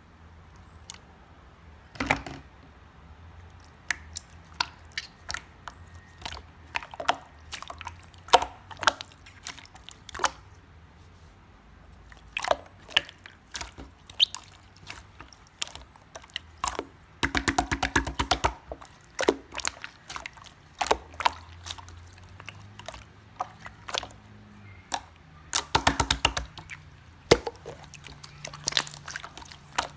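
Clear slime with glitter and small plastic charms being squished and pressed by hand: irregular wet clicks and pops. Twice it breaks into a run of rapid crackling.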